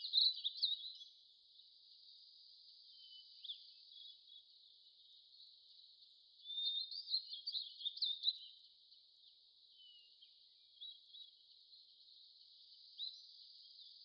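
Faint bird chirps over a steady high hiss: a few short calls near the start and a busier cluster about seven seconds in.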